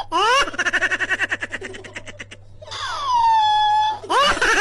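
A pet's long, loud, wavering yowls: about three drawn-out calls, each sliding up or down in pitch and then held.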